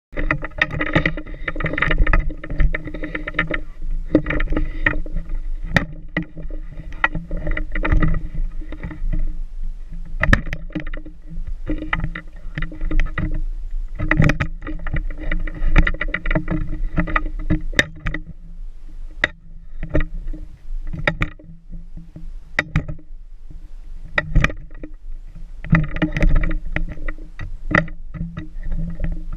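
A vehicle driving, heard from inside: a steady engine hum with frequent knocks and rattles throughout.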